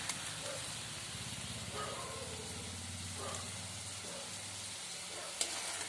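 Spiced Malabar spinach stalks sizzling in a pan of hot oil while a spatula stirs and scrapes through them, with a sharp metal tap near the end.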